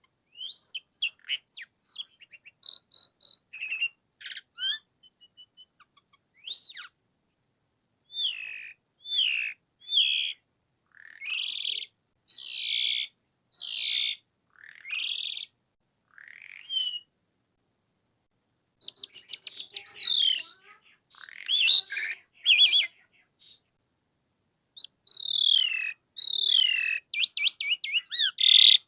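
A pied starling (jalak suren) singing a long, varied song of whistled glides, quick chattering notes and harsh rasping notes, broken by short pauses.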